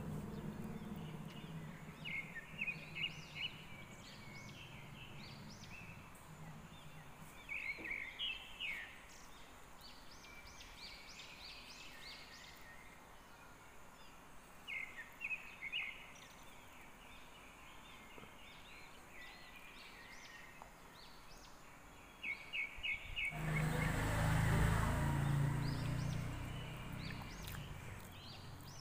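Birds chirping in short bursts of quick repeated notes every few seconds over faint background noise. Near the end a louder low rumble with a rushing noise rises for a few seconds.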